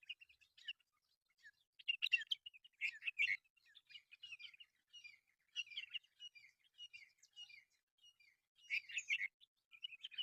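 Mynas calling: a steady run of varied short chirps and chattering notes, loudest in bursts about two, three and nine seconds in.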